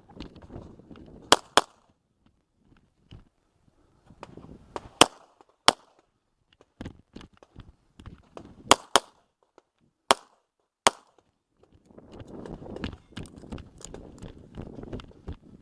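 A handgun fired in a practical shooting stage: about eight sharp shots, several in quick pairs (near the start, and around the middle), with stretches of rustling movement between the strings of shots.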